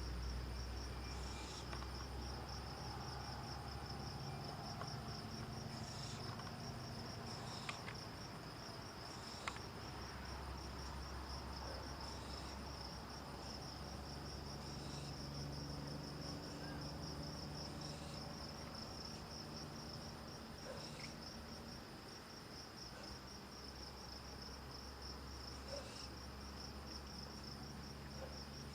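Steady high-pitched trilling of insects, unbroken throughout, over a low steady hum.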